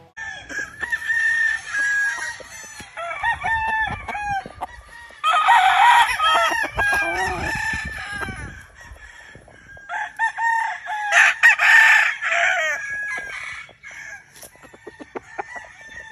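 Several gamefowl roosters crowing over one another, with clucking between crows; the crowing is loudest about five to seven seconds in and again around eleven to twelve seconds in.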